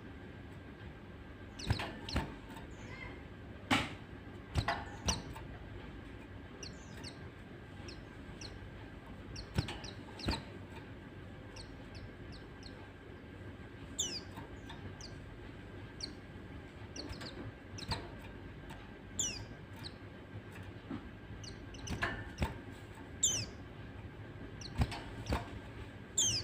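White-eyes (pleci) calling: short, high chirps that fall in pitch, scattered irregularly, mixed with sharp clicks, over a steady faint hum.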